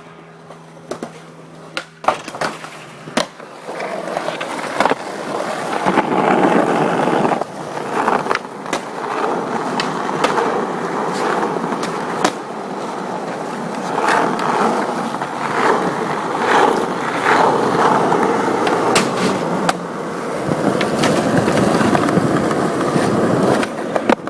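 Skateboard run on a Ford F-150 pickup truck: sharp board clacks in the first few seconds, then long stretches of wheels rolling and trucks scraping, broken by repeated knocks of the board hitting and landing.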